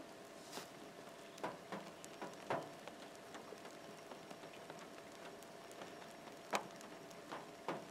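Rain falling, with scattered drops tapping irregularly as sharp ticks over a soft steady hiss and a faint steady hum.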